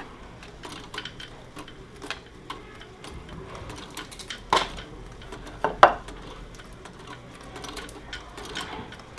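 Plastic Lego pieces clicking and clattering in irregular small clicks, with two sharper, louder clacks around the middle.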